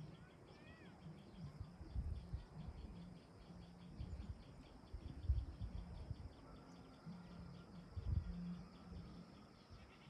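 A bird gives a short gliding call about half a second in, against faint outdoor ambience, while low gusts of wind buffet the microphone several times.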